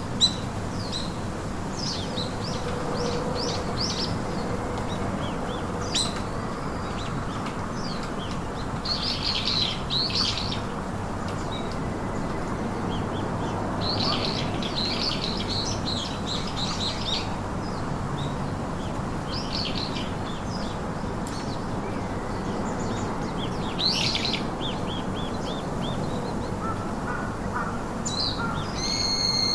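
Songbirds chirping and twittering in short bursts of quick high notes every few seconds, over a steady background hiss.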